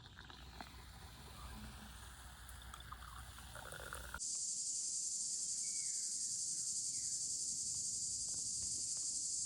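Mixed low outdoor noise with scattered small clicks, then, after an abrupt cut about four seconds in, a steady high-pitched insect chorus with a few faint bird chirps over it.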